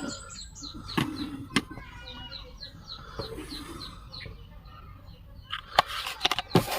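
Small birds chirping in quick repeated short notes, with a few sharp clicks and a brief burst of noise near the end.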